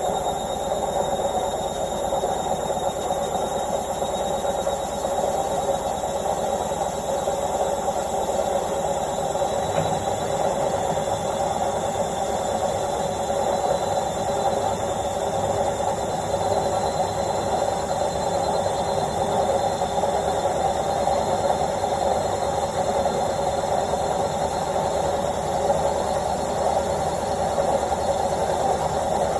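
Washing machine on its spin cycle: a steady, even whirring noise with a faint high whine above it; the low hum grows a little stronger about ten seconds in.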